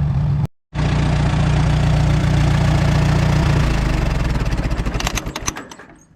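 Allis-Chalmers WD tractor's four-cylinder engine running, then shut off: from a little past halfway its firing breaks into separate pulses that slow and fade as the engine coasts to a stop.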